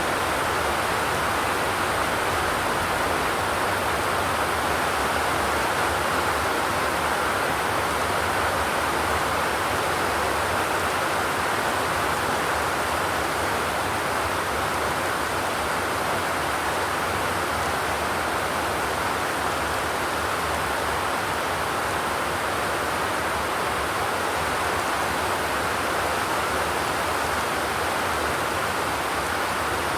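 Steady rain falling on a zinc roof, an even, unbroken hiss with no thunder.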